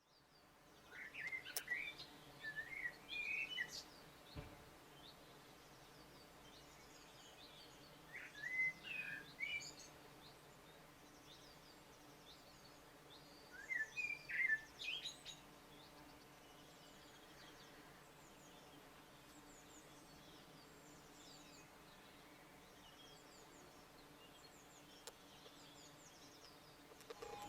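A songbird singing in three main warbling phrases, about five seconds apart, with fainter chirps between them, over quiet steady outdoor background noise.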